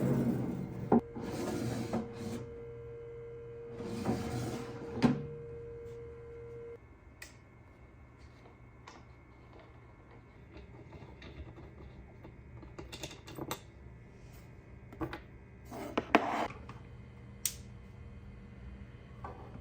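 Small objects being handled and set down on a desk: scattered light clicks and knocks, with a couple of brief rustles in the first few seconds and a faint steady hum that stops about seven seconds in.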